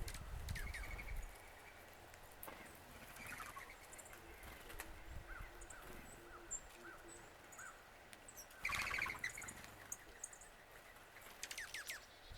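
Several wild birds calling: scattered short chirps and thin high notes, a run of quick repeated notes, and a louder harsh, rasping call about nine seconds in. A low rumble, such as wind or handling, sits under the first second.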